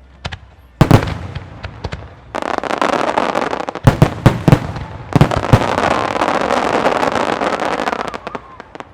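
Aerial firework shells from a professional display bursting: a sharp boom about a second in, then a long run of dense crackling with several more booms in the middle, dying away near the end.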